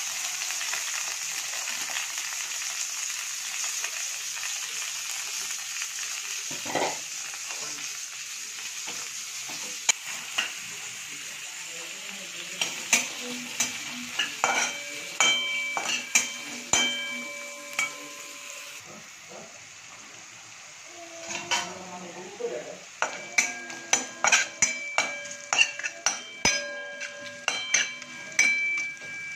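Sliced onions and green chillies sizzling in hot oil in a wok. Over the second half a spatula is stirring and tapping against the pan, making many sharp clicks, each with a brief metallic ring.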